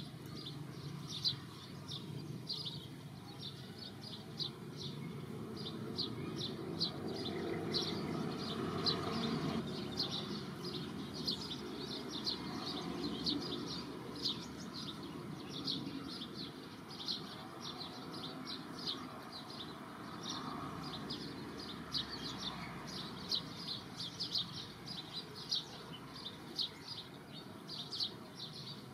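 A bird chirping over and over, short high chirps about three a second, over a steady low background rumble.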